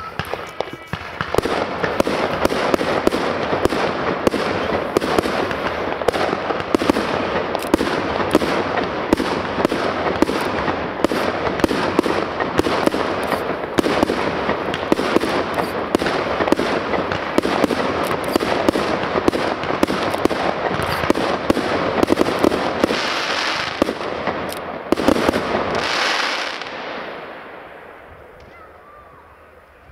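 Many fireworks going off at once: a dense, continuous barrage of bangs and crackling that starts abruptly, keeps up for about 25 seconds, then dies away near the end.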